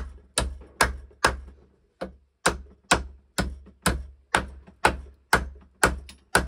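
A hammer driving nails, struck in a steady rhythm of about two blows a second with a brief pause about two seconds in: the wall being nailed back together.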